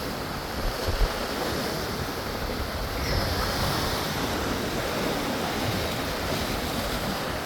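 Mediterranean Sea surf washing onto the shore in a steady rush, with light wind buffeting the microphone in a few low thumps about a second in.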